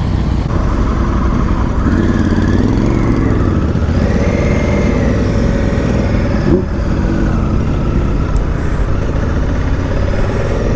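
Honda Africa Twin adventure motorcycle running on the road, its engine pitch rising and falling as it accelerates through the gears. A short knock comes about two-thirds of the way through.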